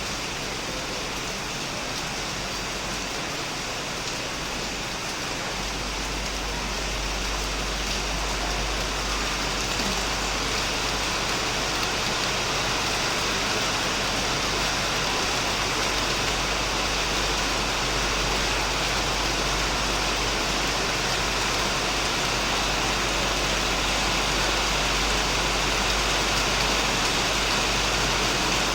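Heavy rain falling steadily on a shed roof and plants, a dense even hiss that grows slightly louder. A low rumble joins about five seconds in.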